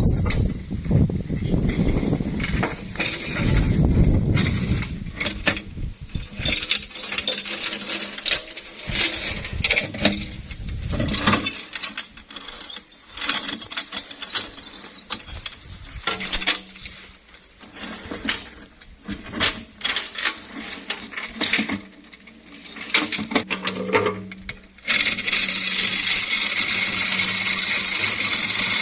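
Metal clinking and knocking, in irregular strikes, from hand work on a steel excavator bucket, over a low engine rumble that drops away about eleven seconds in. A steady hiss starts near the end.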